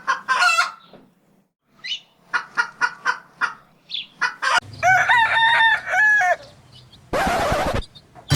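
Chickens clucking in a run of short calls, then a rooster crowing about halfway through. A short hissing whoosh follows near the end.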